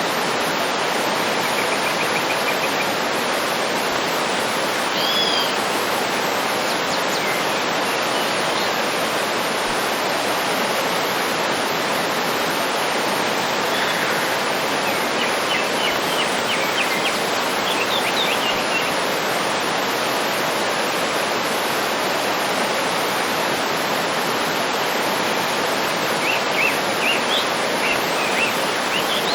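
Waterfall rushing steadily, with birds chirping and trilling over it now and then.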